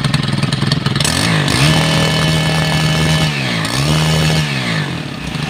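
The Stihl BT 131 earth auger's small four-mix engine (a two-stroke with valves) revved twice from idle to full throttle. It holds high speed for about a second and a half, dips, revs again briefly, then falls back to idle. This is the engine being run up while its carburettor's high- and low-speed screws are tuned.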